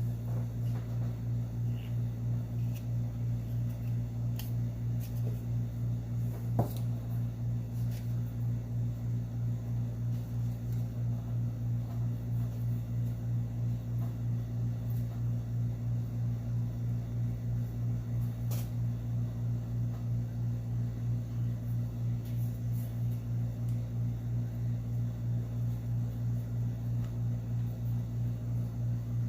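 A steady low electrical hum with a fine regular pulse, with a few faint light clicks, the clearest about six and a half seconds in.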